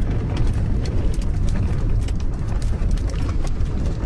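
Gale-force wind buffeting a small car-camper: a heavy, steady low rumble of wind with many small rattles and clicks.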